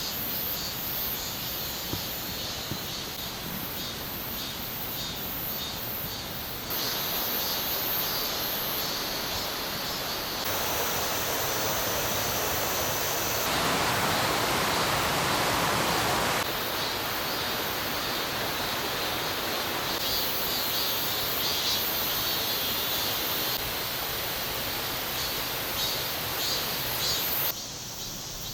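Flowing stream water rushing steadily, with insects chirring high above it. It changes abruptly several times, as from one spliced clip to the next, and is loudest in the middle.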